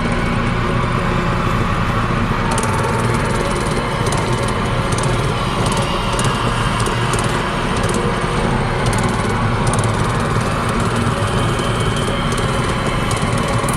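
Small single-cylinder mini bike engine running steadily. From about two and a half seconds in, many sharp clicks and cracks sound over it.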